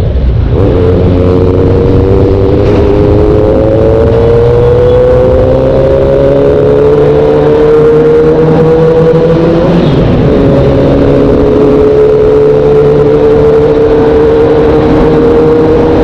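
Motorcycle engine running hard at speed, its note rising slowly over several seconds, briefly breaking about ten seconds in, then holding steady.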